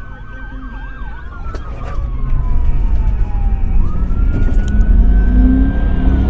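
Police car siren wailing, its pitch sliding slowly down and then back up, with a fast warble in the first second. Beneath it, loud engine and road rumble builds about two seconds in as the vehicle speeds up.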